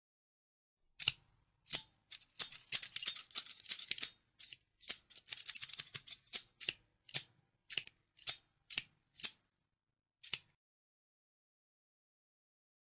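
Scissors snipping, starting about a second in. In the middle the snips come in quick runs; after that they are single snips about half a second apart, the last one about ten seconds in.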